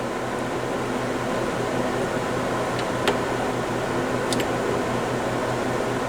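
Steady fan-like hum with a low drone, and two light clicks about three and four and a half seconds in.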